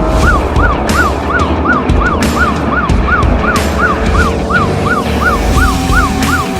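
Siren in a fast yelp, rising and falling about three times a second, starting suddenly. Underneath are the steady rumble of a motorcycle engine at speed and wind noise.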